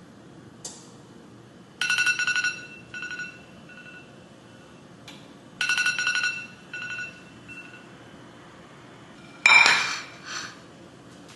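An electronic ringing tone: a rapid trilling pattern that sounds once, repeats about four seconds later, and comes a third time, louder and sharper, near the end.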